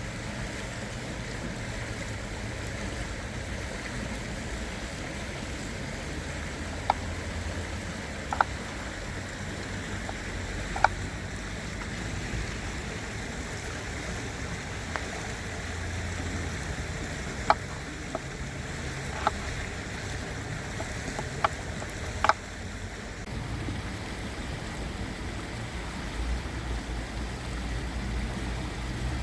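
Stream water running steadily, with a low rumble that comes and goes, and a scatter of short sharp clicks between about seven and twenty-two seconds in.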